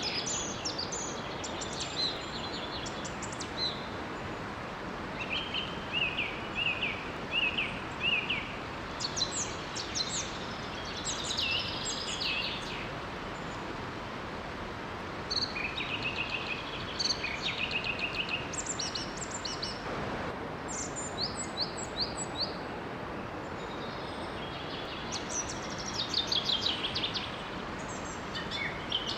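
Several birds singing in short phrases of quick, high chirps and trills, one repeating a series of notes, over the steady rush of a small waterfall.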